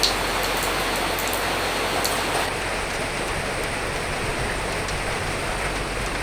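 Steady rain, an even hiss with scattered sharp drop ticks that stop about two and a half seconds in.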